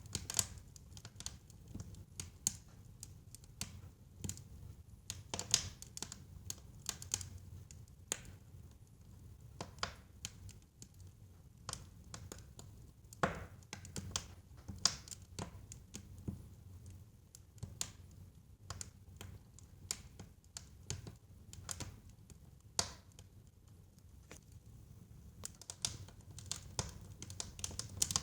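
Wood fire burning in a fireplace: irregular crackles and pops over a low, steady rumble of the flames, with a louder snap about halfway through and a cluster of pops near the end.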